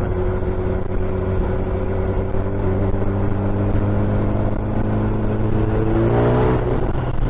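Suzuki Hayabusa's inline-four engine running at steady cruising revs, then rising in pitch about five seconds in as the throttle opens, and dropping back near the end.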